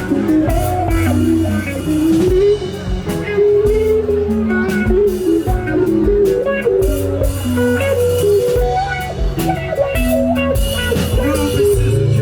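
Live band playing an instrumental passage: a melodic guitar line over bass guitar and a drum kit keeping a steady beat.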